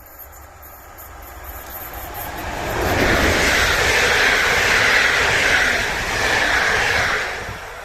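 A train passing close by: the rumble and hiss of wheels on rails swells up, stays loud for about four seconds, then falls away near the end.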